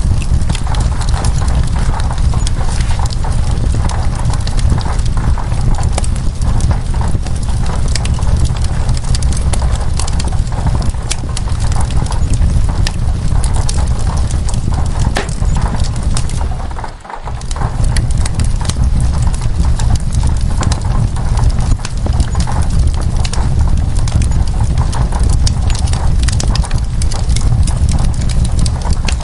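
Wood fire crackling and popping in a dense, irregular patter over a steady low rumble, mixed with steady rain. The sound fades briefly almost to nothing about seventeen seconds in, then comes back.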